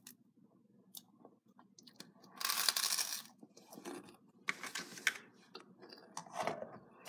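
Toasted bread bitten and chewed close to the microphone: one long crunch about two and a half seconds in, then a few quieter crunches of chewing.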